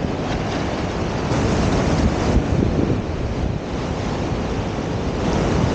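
Sea surf washing on the beach, mixed with strong wind buffeting the microphone in a steady low rumble.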